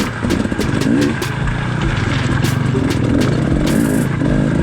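Dirt bike engine picking its way through loose rock at low speed, the revs rising and falling, with frequent sharp knocks and clicks.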